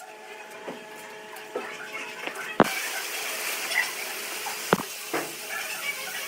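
Workshop machine with a steady hum, over which come three sharp knocks, the first about two and a half seconds in, with a scratchy noise between them. The hiss gets suddenly brighter at the first knock.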